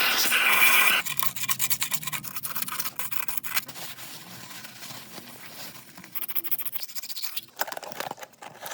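Loud hiss that cuts off about a second in, followed by irregular scraping, scratching and clicking of tools against metal parts during the water pump replacement.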